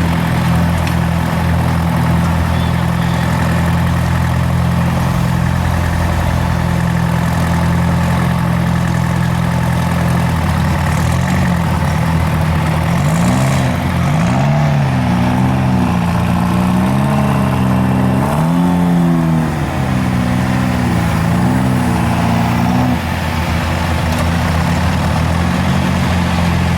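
Mega truck engine running loudly at a steady idle, then from about ten seconds in revved up and down in a series of short blips, settling back to a steady idle near the end.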